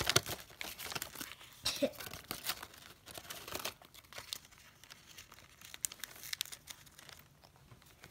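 Gift-wrapping paper crinkling and tearing in quick crackly bursts as a pet bird picks at it, busiest in the first few seconds and sparser after.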